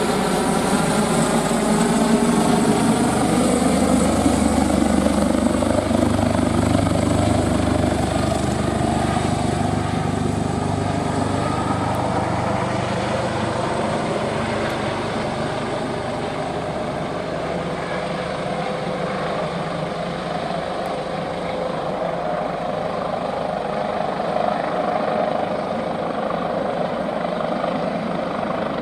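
Airbus H145 air ambulance helicopter's twin turbine engines and rotors running, a steady sound with tones slowly gliding in pitch. A heavy low thrum is strongest in the first half and fades after about twelve seconds.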